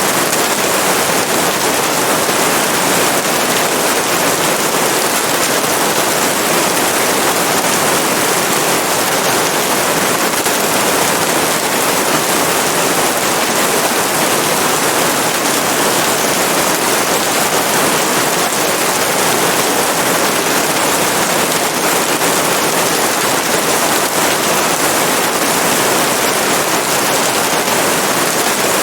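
Steady heavy rain: a dense, even hiss of rainfall with fine crackling of drops, unchanging in level.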